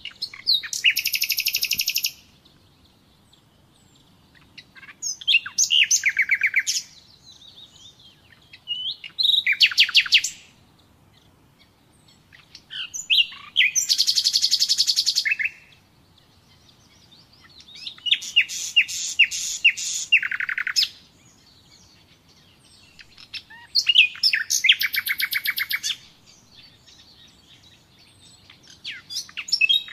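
Nightingale singing: a series of separate phrases, each about two seconds of fast repeated notes and trills, coming every four to five seconds with short whistles in the pauses.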